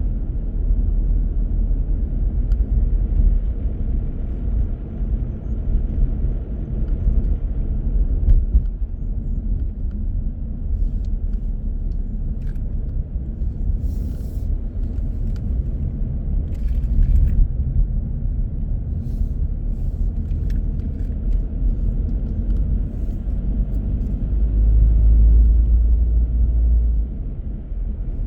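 A car driving along a road: a steady low rumble of engine and tyre noise, with a few faint ticks in the middle and the rumble growing louder for a few seconds near the end.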